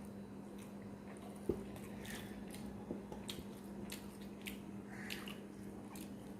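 Close-up eating sounds of a rice meal: wet squishing of food being mixed and chewed, with scattered small clicks and a sharper click about a second and a half in. A steady low hum runs underneath.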